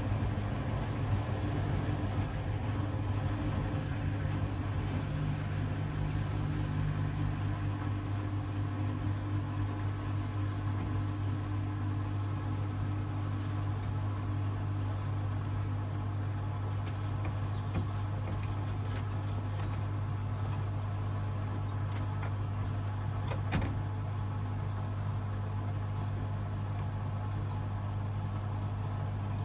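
Hoover DXOA610AHFN-80 front-loading washing machine running mid-cycle with a steady, unchanging low hum. There is a faint knock about two-thirds of the way through.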